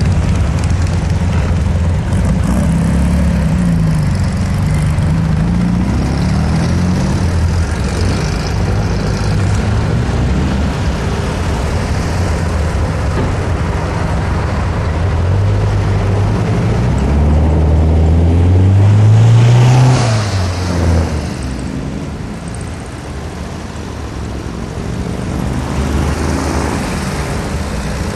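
Air-cooled flat-four engines of vintage Volkswagen Beetles and split-window buses pulling away one after another, engine pitch rising and falling as they accelerate. One passes closest about twenty seconds in, climbing in pitch to the loudest point, then drops away.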